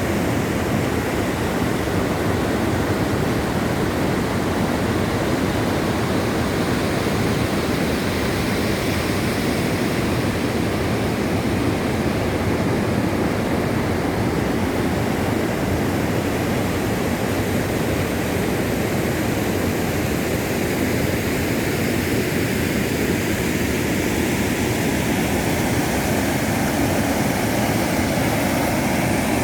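River waterfall: loud, steady rushing of falling water.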